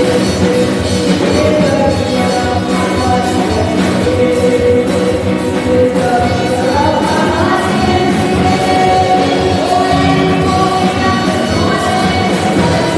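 Live church worship band playing loudly, with a singer holding long sustained notes over the instruments.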